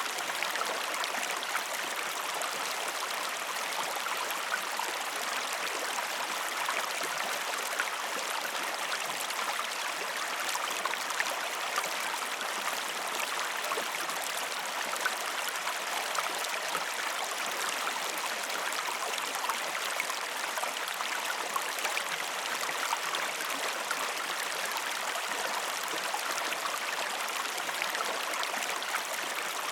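Steady sound of a flowing stream, an even rush of running water with small splashes and trickles throughout.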